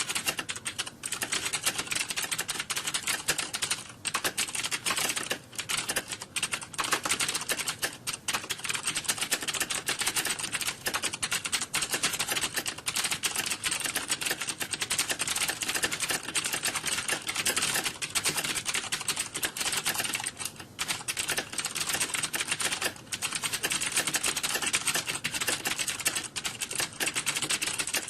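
Computer keyboard typing, a dense and continuous clatter of key clicks with no real pauses, like several people typing at once in an exam hall.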